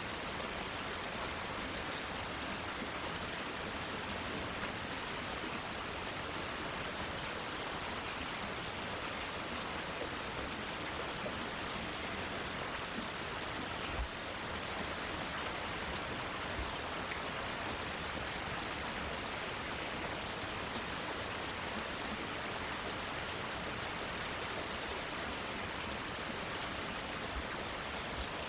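Steady rain falling, an even hiss of drops. A single brief tap stands out about halfway through.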